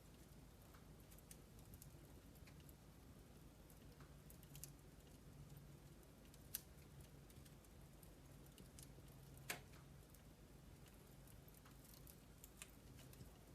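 Wood logs burning in a fireplace, crackling faintly with scattered small snaps and two louder pops about halfway and two-thirds of the way through.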